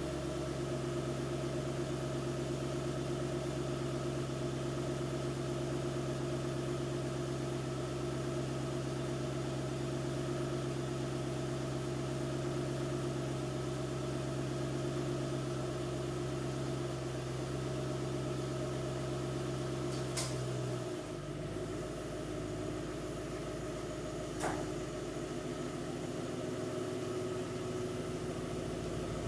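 2006 Mustang GT's 4.6-litre V8 idling steadily through its dual exhaust after a winter cold start. About two-thirds of the way through, the low note of the idle changes and drops away, and two short sharp clicks are heard near then.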